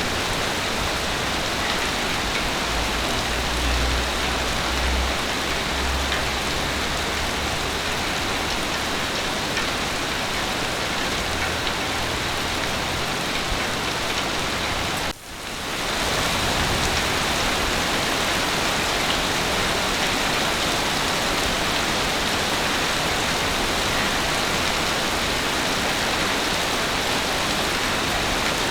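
Heavy rain falling steadily, a dense even hiss. About halfway through the sound briefly dips and fades back in.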